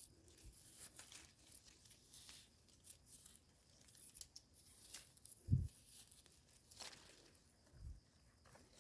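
Faint rustling and crackling of soil and leaf litter as termite mushrooms are handled and pulled from the ground, with a soft low thump about five and a half seconds in.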